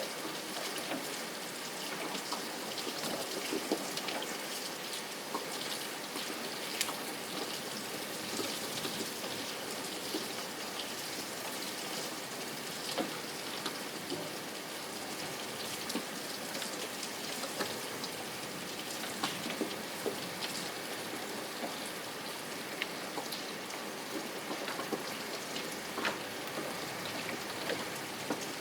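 Steady rain, with a hiss and many small drop ticks scattered through it.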